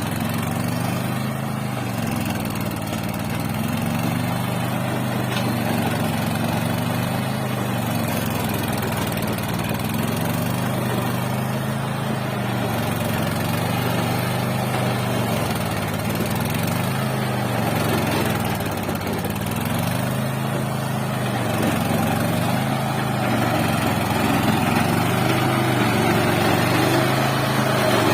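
Small 12 HP mini tractor engine running steadily and loudly, its pitch wavering slightly up and down.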